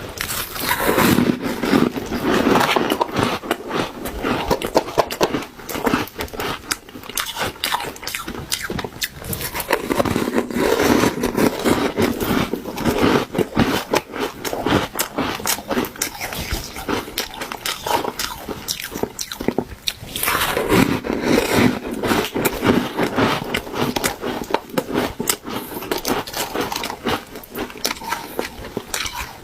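Refrozen shaved ice being bitten and chewed close to the microphone: a dense run of soft crunches and crackles, with heavier bites coming in three stretches about ten seconds apart.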